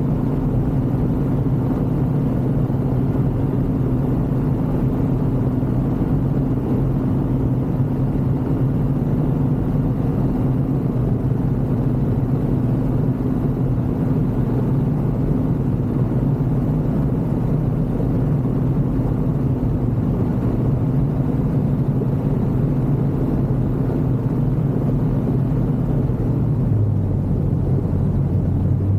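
Ultralight aircraft engine and propeller running steadily in flight, a loud even drone. Near the end a lower tone takes over briefly.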